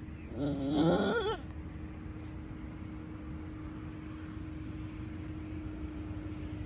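A goat bleats once, a quavering call about a second long, over a faint steady hum.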